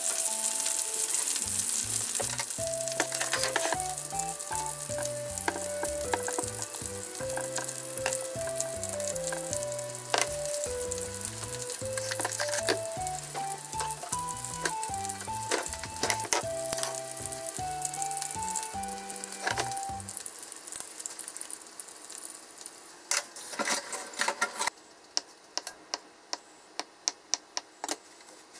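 Chicken tenders sizzling steadily in oil in a frying pan under a splatter lid, with light background music for most of it. The sizzling cuts off suddenly near the end, followed by a few light taps.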